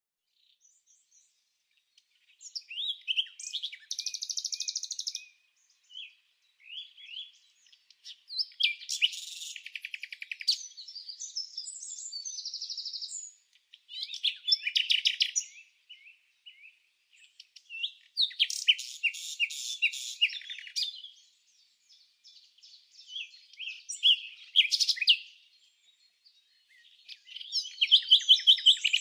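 Songbird singing: phrases of chirps, trills and rapid note series, each a few seconds long with short pauses between, starting about two seconds in.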